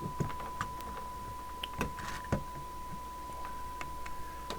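Steady single-pitch audio test tone from a signal generator, used to modulate a CB transmitter during alignment, with a few faint clicks from handling the bench equipment.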